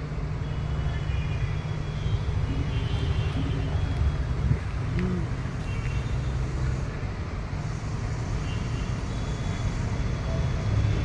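Steady low rumble of street traffic, with a single faint click about four and a half seconds in.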